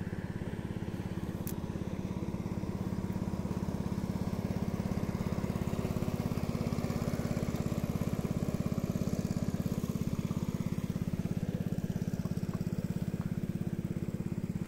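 Small engine running steadily at an even, fast putter, with a single faint click about a second and a half in.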